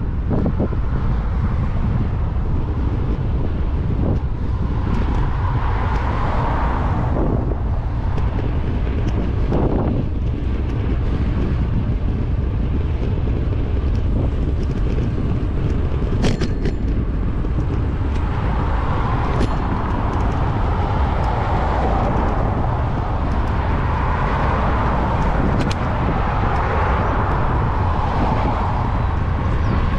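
Wind buffeting a bicycle-mounted action-camera microphone while riding, with car traffic passing alongside: tyre and engine noise swells about six seconds in and again through the last third.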